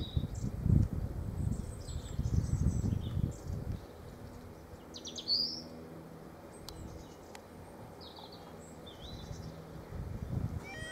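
Small birds chirping and calling on and off, over bursts of low rumbling noise in the first few seconds and again near the end.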